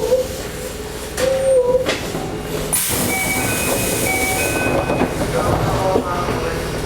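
Toei 5300 series train running, heard from inside the car, with wheels on rail, a squealing tone and whining tones that step in pitch as it slows into a station. There is a short burst of air hiss about three seconds in.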